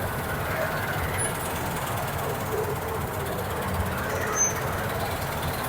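Combine harvester running steadily during wheat harvesting, a continuous engine and machinery noise.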